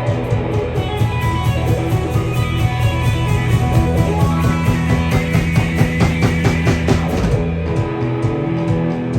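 Live rock band playing an instrumental passage on electric guitars, bass and drum kit. The drum strikes come faster through the middle, and the band moves into a new section about seven and a half seconds in.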